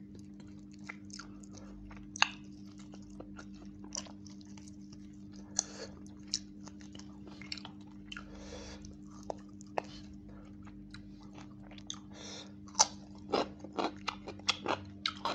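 Close-up wet chewing of chicken and rice eaten by hand, with many sharp lip-smacking clicks that come thicker near the end. A steady low hum runs underneath.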